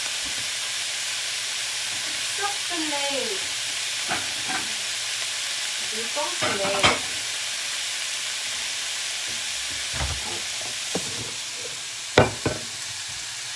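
Tofu and mixed vegetables sizzling steadily in a hot wok, with a utensil clinking against the pan now and then during stirring, and a couple of sharper knocks near the end.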